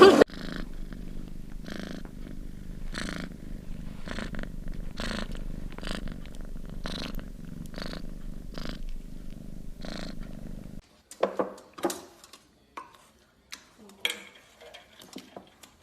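A cat purring close up, a steady low rumble that swells in a regular rhythm with each breath. It stops abruptly and gives way to a few scattered soft clicks and knocks near the end.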